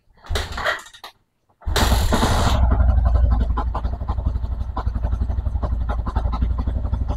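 Yamaha Jupiter MX King's single-cylinder four-stroke engine being started: a short first crank, then it catches about a second and a half in, revs briefly and settles into a steady idle.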